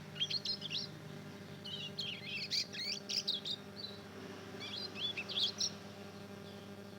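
Young mozken (yellow-fronted canary × domestic canary hybrid) twittering a rambling, unformed practice song in three short bursts of quick squeaky chirps and warbles: a fledgling about two months old learning to sing. A steady low electrical hum runs underneath.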